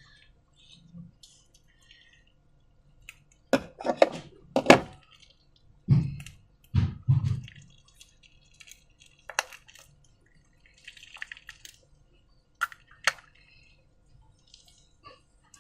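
Wet slime being squished and handled: scattered sticky squelches and clicks. The loudest cluster comes about four seconds in, with a couple of duller thuds soon after.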